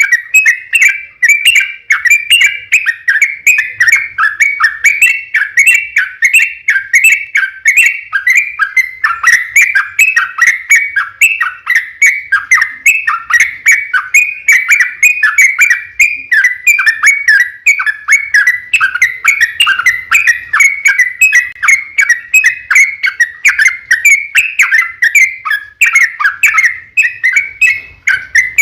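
Sooty-headed bulbul (trucukan) singing a long, unbroken run of quick, chattering whistled notes, several a second, with no pause.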